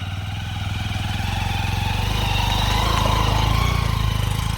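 Motorcycle engine running, its revs and loudness rising through the middle and easing slightly near the end.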